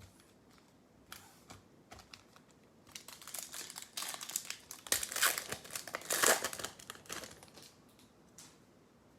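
Plastic and foil wrapping crinkling and tearing as a baseball-card mega box and its packs are opened. A few light crackles come first, then the crinkling grows dense and loudest past the middle before dying away.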